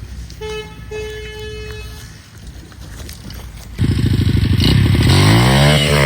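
Pit bike engine starting about four seconds in and running loud, then revving with its pitch rising and holding high.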